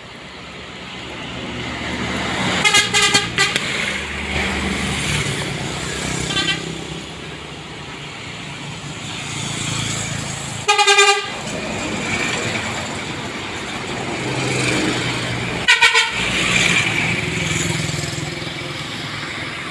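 Heavy road vehicles, tour buses and palm-fruit trucks, passing with engine and tyre rumble that swells and fades. Their horns sound: a few short toots about three seconds in, a brief blast near the middle and another about three-quarters of the way through.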